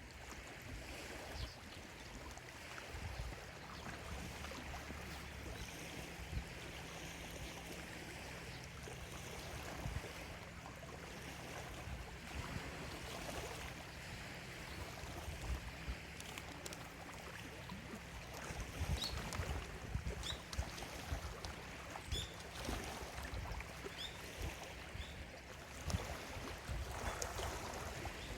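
Small lake waves lapping steadily on the shore, a continuous wash with a low rumble underneath. A few short, high bird calls come through in the second half.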